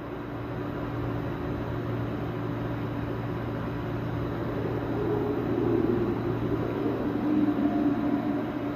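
A low, steady droning hum that swells louder and wavers about five seconds in.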